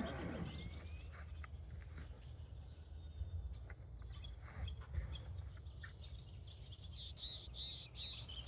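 Small birds chirping, with a run of quick repeated chirps near the end, over a steady low rumble.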